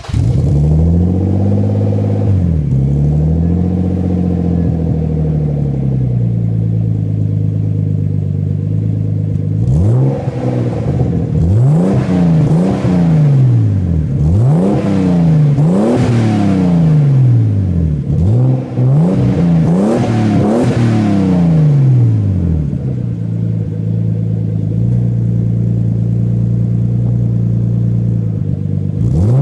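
Turbocharged BMW E36 M3 straight-six, through a 3-inch stainless steel exhaust, starting and flaring up, then idling. About ten seconds in it is revved in a run of quick blips, about eight in all, before settling back to a steady idle and giving one more rev near the end.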